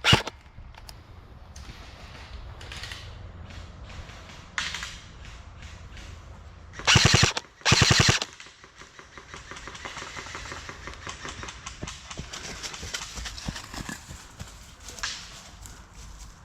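Two short full-auto bursts from an airsoft electric rifle, about seven and eight seconds in, each a rapid string of shots lasting about half a second.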